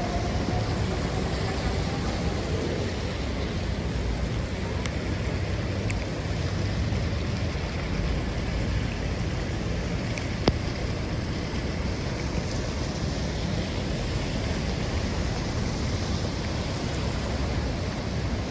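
Steady storm noise of wind and rain, with wind buffeting the microphone in a low rumble. A single sharp tick about ten seconds in.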